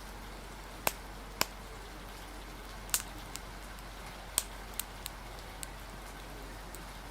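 Wood fire crackling with sharp, irregular pops over a steady hiss of rain and wind.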